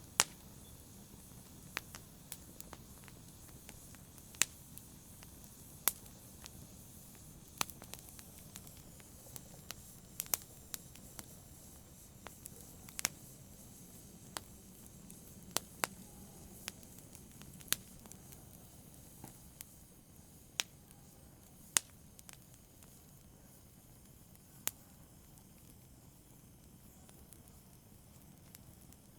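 Wood fire in a fireplace crackling: sharp, irregular pops over a low, steady rumble of the flames. The pops grow sparser near the end.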